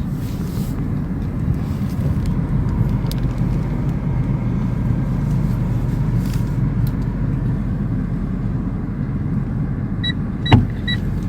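Steady low rumble of a car, the new Tata Tiago. Near the end a warning chime beeps about twice a second, and there is a single sharp thump.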